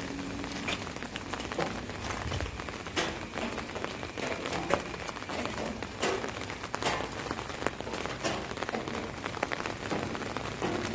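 Rain falling on an umbrella: a steady patter with many sharp, irregular louder drops striking the canopy.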